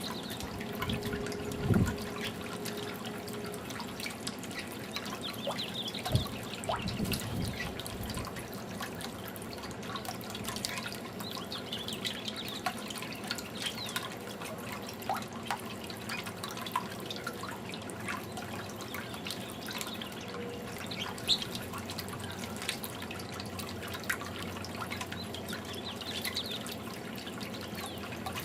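Fountain water trickling and dripping steadily, with a few sharper knocks, the loudest about two seconds in.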